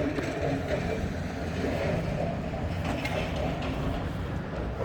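A machine running: a steady low rumble with light irregular clatter.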